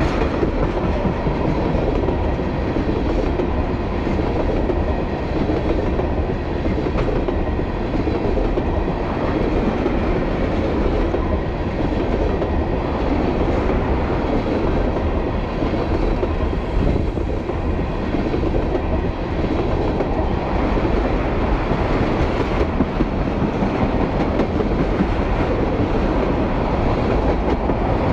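Freight train of tank cars passing close by at speed: a steady, loud rumble of steel wheels running on the rails.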